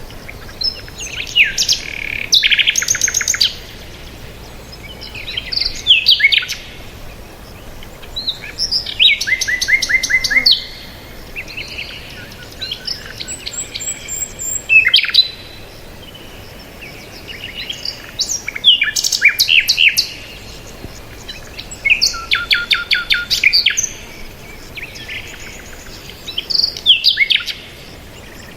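Songbirds chirping: short phrases of rapid trilled notes, repeating every few seconds over a faint steady outdoor background.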